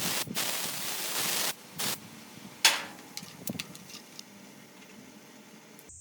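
Bursts of hissing: a long one of about a second and a half, a short one, then a sharper loud hiss a little before halfway, after which only a low hiss remains.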